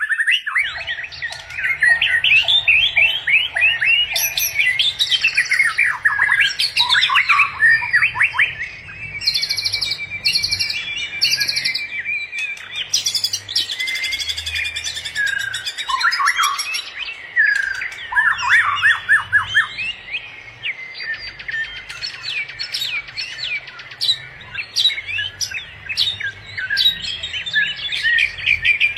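Several birds chirping and singing together in a dense, continuous chorus of quick high chirps and trills.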